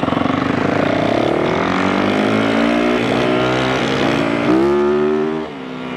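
Yamaha YZ450F's single-cylinder four-stroke engine revving hard as the dirt bike accelerates: the pitch climbs, dips briefly twice at gear shifts, climbs again, then falls as the throttle closes near the end.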